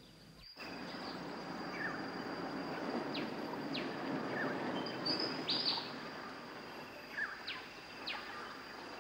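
Birds calling outdoors: a series of short chirps that sweep downward in pitch, repeated every second or so, with a brief higher call in the middle, over a steady background hiss that comes in about half a second in.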